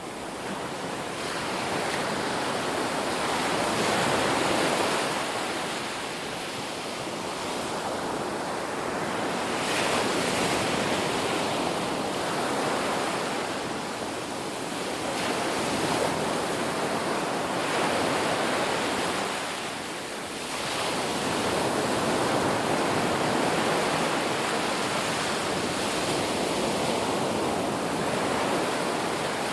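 Ocean waves breaking and washing on a shore, the surf swelling and easing every five or six seconds.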